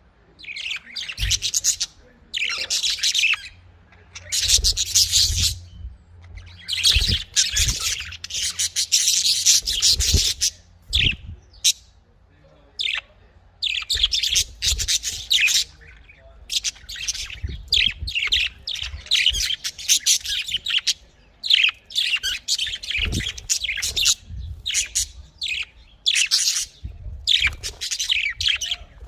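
Budgerigars chirping and chattering in a stream of high, scratchy bursts with short pauses between them. Occasional faint low thuds run underneath.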